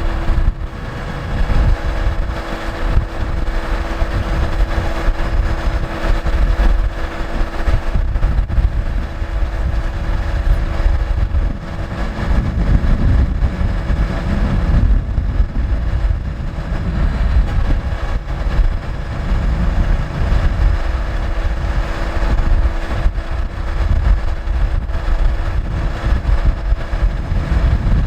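Scania R580 truck's V8 diesel engine running steadily, a low rumble with a constant hum over it.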